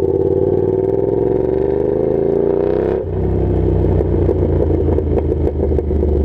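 Yamaha FZ-07 parallel-twin motorcycle engine through a Danmoto XG-1 exhaust, its note rising steadily for about three seconds, then dropping abruptly to a lower, uneven note.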